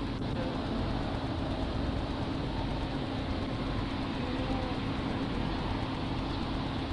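Steady motor-vehicle noise: an engine idling with a constant low hum and an even rumble.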